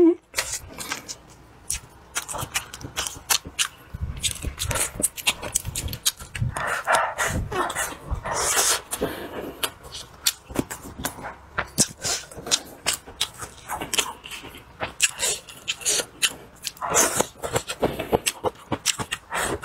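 Close-miked chewing and wet lip-smacking of a man eating, with rapid mouth clicks throughout and a few louder stretches of bites and slurps.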